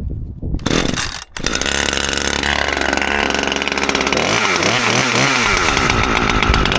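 Gas chainsaw recoil-started cold with the choke on: a pull-cord pull, then the engine catches about a second in and runs steadily. From about four seconds in the engine speed rises and falls repeatedly.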